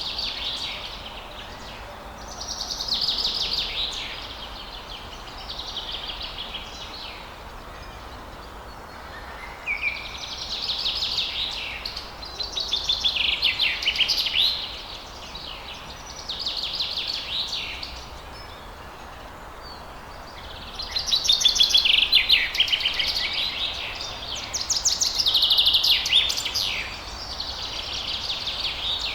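Songbirds singing: high, rapidly trilled phrases a second or two long, repeated every few seconds with short pauses between, over a steady background hiss.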